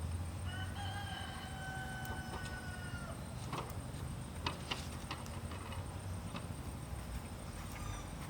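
A rooster crowing once, a long held call lasting about two and a half seconds, followed by a few scattered light knocks.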